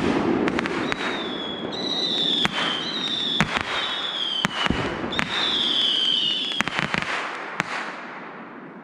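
Fireworks display: a rapid run of sharp bangs, with several high whistles that each slide slightly down in pitch, dying away near the end.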